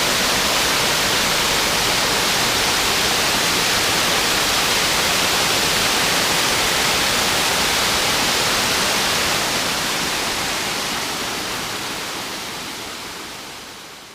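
Loud, steady rush of a waterfall's water cascading down, fading out over the last few seconds.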